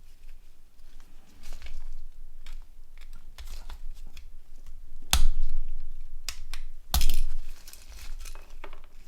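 Small clicks, scraping and crinkling as parts are pried and pulled out of a mobile phone's plastic body shell, with two louder sharp clicks about five and seven seconds in.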